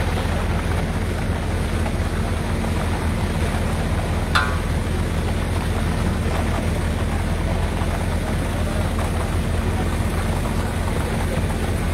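Heavy machinery engine on a construction site running steadily at a constant speed, with one sharp metallic clank a little over four seconds in.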